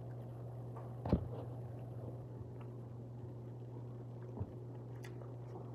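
A person chewing and biting food over a steady low hum, with a brief knock about a second in and a smaller one near four and a half seconds.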